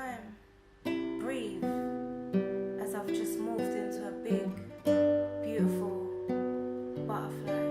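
Acoustic guitar playing a chord progression, its notes plucked and left ringing, with a brief lull just under a second in.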